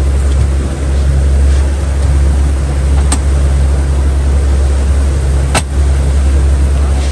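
Boat engine running steadily at trolling speed, a loud, even low rumble. Two short sharp clicks cut through it, about three seconds in and again about five and a half seconds in.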